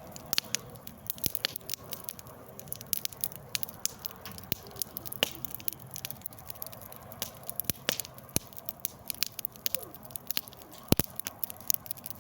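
Wood fire crackling, with irregular snaps and pops from the burning wood and one louder pop near the end.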